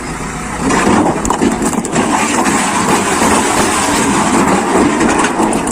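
Dump truck engine running loud and steady with a rough rumble.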